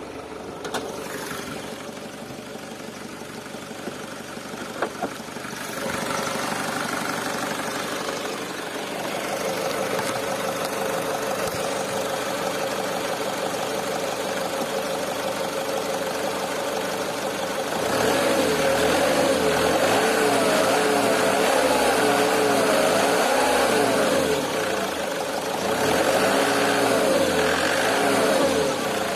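Nissan YD22D 2.2-litre diesel engine running warm, steady at first, then revved up and down twice near the end. Revving is when the owner reports a metallic knock appearing, which, going by online descriptions, he takes for knocking injectors.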